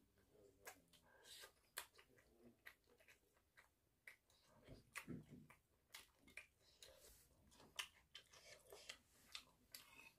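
Quiet, close-miked chewing of food, with many small sharp clicks and smacks.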